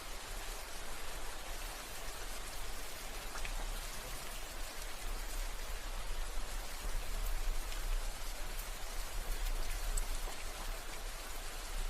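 Steady rain falling, a dense even hiss with scattered drops ticking on a surface, and a low rumble underneath.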